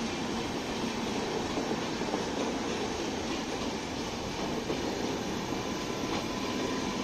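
LHB passenger coaches rolling past close by, a steady rumble of steel wheels on rail.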